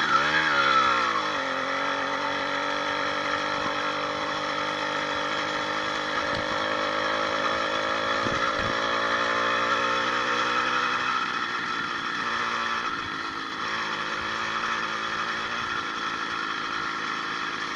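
80cc two-stroke motorized-bicycle engine running, fitted with a new needle-bearing wrist pin, piston and rings. Its speed drops from a rev to a steady idle in the first second or so, with small changes in speed later.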